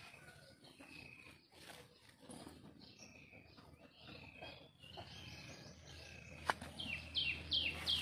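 Birds singing in a garden: scattered short chirps, then from about seven seconds in a run of loud, repeated falling notes, about three a second. A single sharp click sounds shortly before that run.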